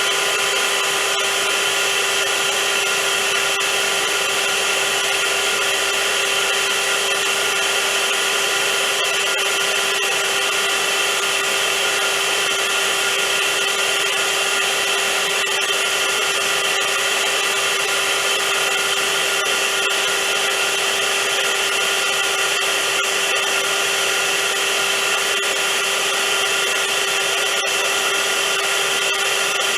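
Vacuum cleaner running steadily: a constant loud whoosh of rushing air with a steady motor hum.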